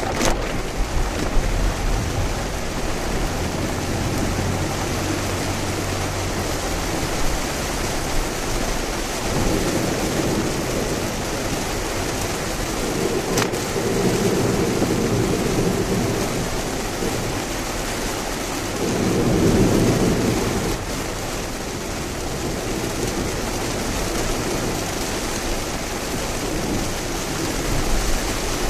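Heavy typhoon rain and tyre spray on a Lexus RX driving along an expressway: a steady rushing noise, with swells of deeper rumble about ten and twenty seconds in and a single brief click near thirteen seconds.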